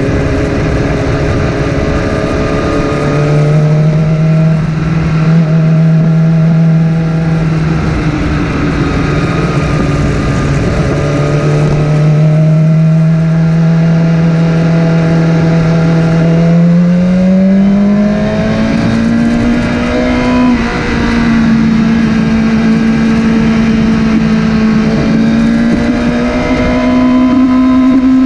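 Motorcycle engine running under way, holding a steady pitch for long stretches. Its pitch climbs about two-thirds of the way through, drops out briefly for a moment, then settles steady at a higher pitch.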